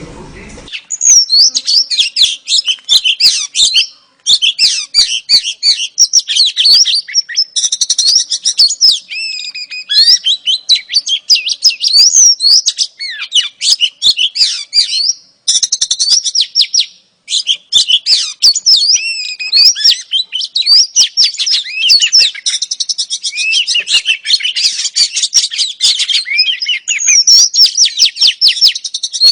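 Oriental magpie-robin (kacer) song, a fast, varied run of high whistles and chirps broken by a few short pauses. It is played as a female's call to lure male magpie-robins into singing.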